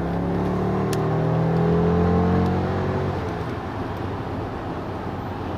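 Mercedes-Benz S580's twin-turbo V8 accelerating, its pitch rising for about three seconds before fading into steady road and tyre noise heard inside the cabin.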